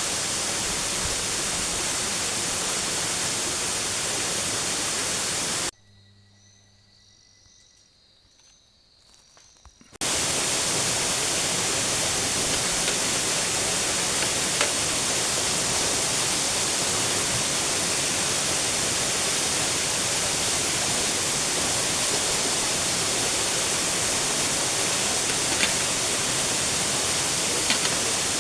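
Waterfall rushing: a steady, dense hiss. It cuts off abruptly about six seconds in for roughly four seconds of near silence, then returns.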